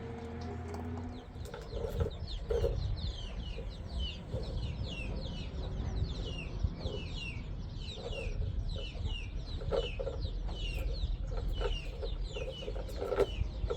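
Birds calling: a quick run of short, high, falling chirps, two or three a second, with short lower clucking notes among them, over a steady low rumble. The chirps begin about a second and a half in.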